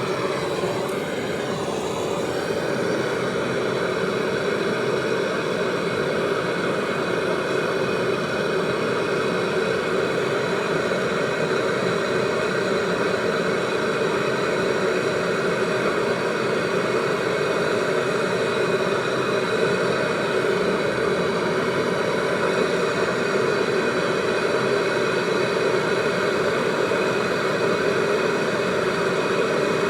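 A machine running steadily: a constant hum with a hiss over it that does not change.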